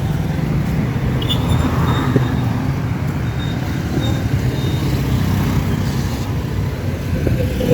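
Street traffic passing close by, a steady engine and tyre rumble from cars and heavier vehicles, with a thin high squeal about a second in that lasts a couple of seconds.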